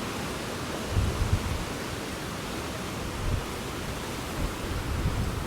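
Strong gusting wind buffeting the microphone: low rumbling blasts about a second in, again around three seconds in and near the end, over a steady rushing hiss.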